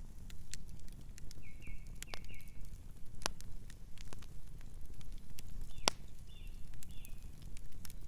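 Wood fire crackling, with sharp pops scattered irregularly over a low steady rumble. A bird gives a few short chirps about a second and a half in and again around six seconds in.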